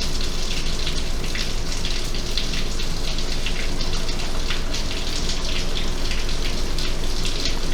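Steady rain: a continuous hiss with many separate drops ticking through it.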